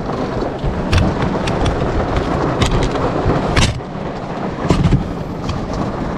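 Heavy storm rain drumming on a car's roof and windows, heard from inside the cabin, with a low rumble underneath. Sharp taps stand out about one second in, twice around two and a half to three and a half seconds, and again near five seconds.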